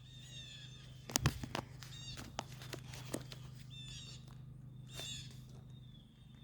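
Blue jays calling over and over in short, high, arched notes. A few sharp knocks come about a second in, over a steady low hum.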